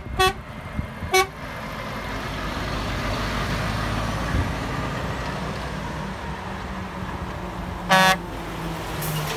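Passing trucks sounding their horns: three short toots in the first second and a half, road and engine noise of a truck going by, then one short, loud air-horn blast about eight seconds in.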